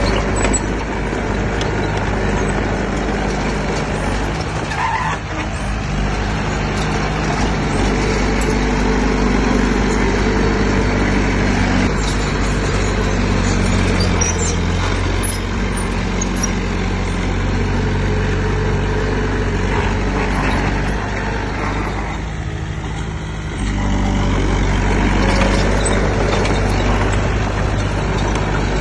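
Heavy earthmoving machine's diesel engine running steadily under load. Its low note dips briefly twice: about four seconds in, and again about twenty-two seconds in.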